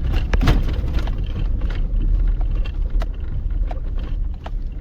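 Vehicle driving on a rough dirt road, heard from inside the cabin: a steady low rumble with frequent short knocks and rattles as it goes over the bumps.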